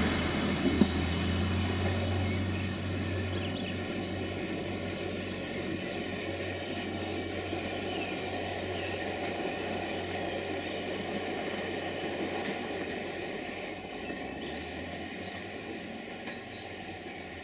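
Passenger train hauled by a GM Class 201 diesel locomotive moving away along the track. Its running noise and low locomotive drone fade steadily as it recedes.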